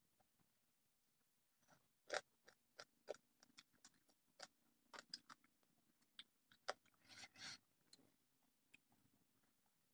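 A person eating by hand and chewing: a quiet string of short smacks and crunches, close to the microphone, starting about two seconds in and thinning out near the end.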